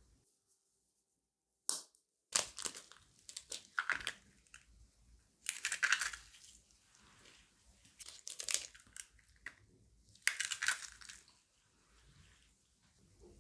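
Crisp crunching and crushing of dry crumbs or crunchy coating, in about six short separate bursts after a near-silent first two seconds.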